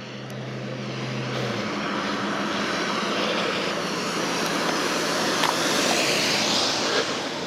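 Rushing noise of a passing motor vehicle, swelling gradually and loudest about six seconds in.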